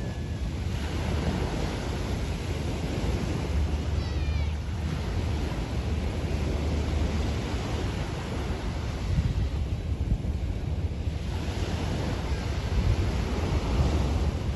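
Waves breaking and washing onto a sandy beach, swelling and easing in slow surges, with a low wind rumble on the microphone. A brief high wavering call sounds about four seconds in.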